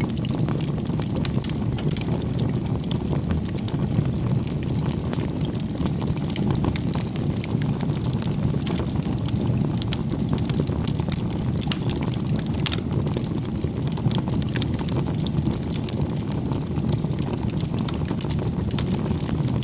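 Wood fire burning: a steady low rush of flames with frequent small crackles and pops scattered through it.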